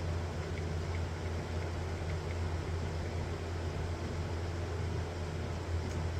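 Mini milling machine running steadily with an even low hum, with no cut or change in speed.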